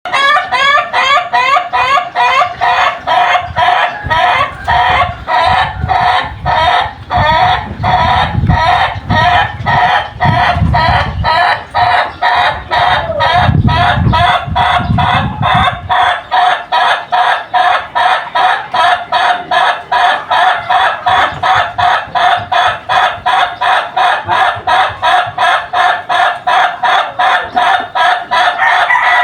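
An ayam ketawa (laughing chicken) rooster's long crow: an unbroken run of quick, evenly repeated notes, about three or four a second, that sounds like laughter. A low rumble runs underneath through the first half.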